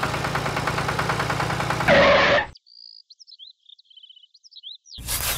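Tractor engine sound running with a steady, rapid beat, swelling into a loud burst about two seconds in and then cutting off suddenly. Faint bird chirps follow, and near the end a short noisy rush begins.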